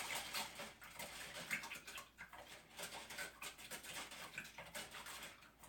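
Faint irregular clinking and swishing of a metal ceiling fan ball chain being rinsed of paint in a container of water.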